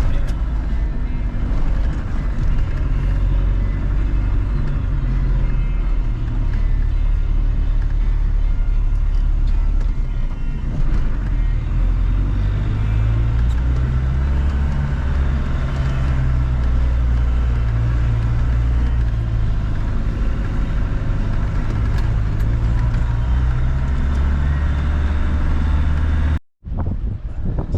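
Land Rover Tdi diesel engine running under load as the vehicle climbs a hill, its pitch shifting up and down with throttle and gearing. The sound cuts off abruptly near the end.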